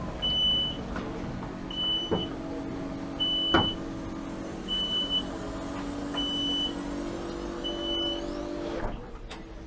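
An electric actuator on a motor boat runs with a steady motor hum, while a high warning beep sounds six times, about one and a half seconds apart. The hum stops shortly before the end, with a few knocks along the way.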